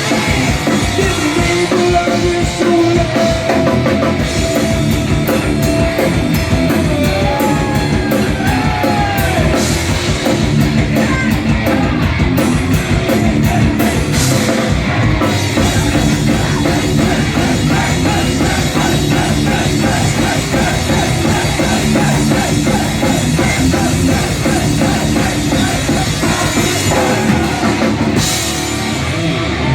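Live heavy rock band playing loud: distorted guitars, bass and a fast-beating drum kit, with sung lines in the first half. The song ends right at the close.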